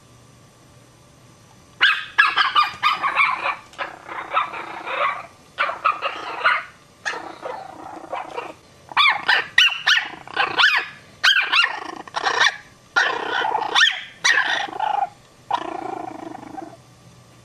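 Puppies barking and growling in a long run of short bursts with brief pauses, starting about two seconds in.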